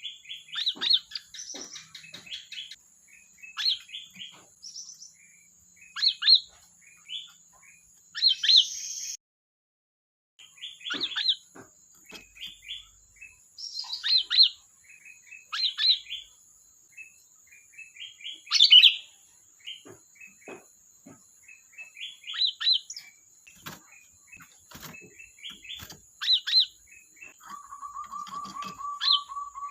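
Sooty-headed bulbul singing: repeated short, loud chirping and chattering phrases with quick rising and falling notes. A faint steady thin high tone runs underneath, and a fast, even, lower trill comes in near the end.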